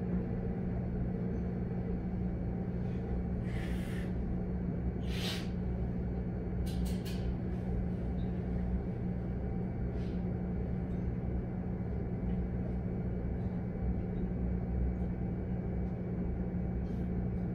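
Steady hum of a Keikyu 1000 series electric train standing at a platform with its doors open, a low steady tone running under it. Two short bursts of air hiss come about four and five seconds in, with a few light clicks around seven seconds.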